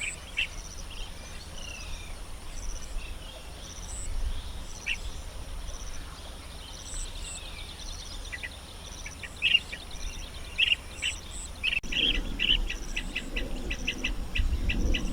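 Wild birds calling with short chirps, scattered at first and becoming a quick run of chirps in the last few seconds, over a steady high insect drone and repeated pulsed insect calls. A low rumble swells near the end.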